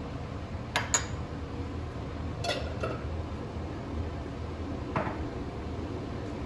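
Dishes and cutlery clinking as they are handled: a handful of sharp knocks and clinks, two close together about a second in, two more midway and one near the end, over a steady low hum.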